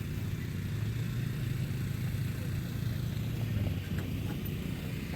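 An engine running steadily nearby, a low, even drone that does not change.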